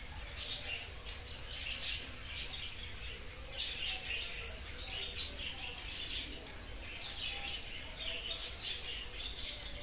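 Small birds chirping, short high chirps about once a second, over a faint steady high whine.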